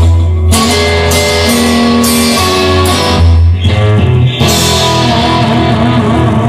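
Rock music: an instrumental passage of electric guitar over bass and drums, its notes changing every second or so.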